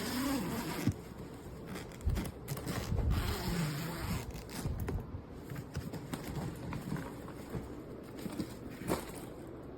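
Handling noise from a hard-shell suitcase: irregular rustling and scraping with scattered clicks, busiest in the first half and thinning out after about five seconds.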